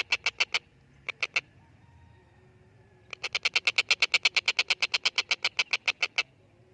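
Stork-billed kingfisher (tengkek buto) calling in rapid, evenly repeated harsh notes, about ten a second. There is a short burst at first, a brief pair about a second in, and a long run of about three seconds starting near the middle.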